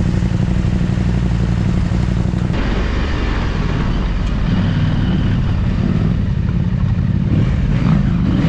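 Big adventure motorcycle engine running while riding a rough off-road trail. Its steady note changes and turns rougher and noisier about two and a half seconds in.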